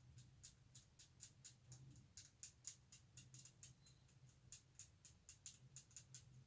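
Faint, quick, irregular light ticks and scratches, about four or five a second, from work on a small plastic kit part to clean off its sprue nibs.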